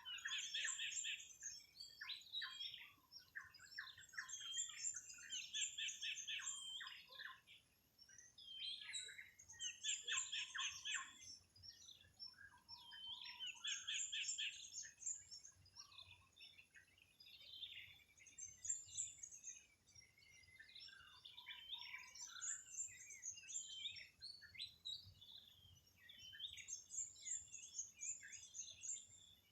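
Birds singing and calling, with a burst of rapid trilling notes repeated every four to five seconds and scattered chirps in between.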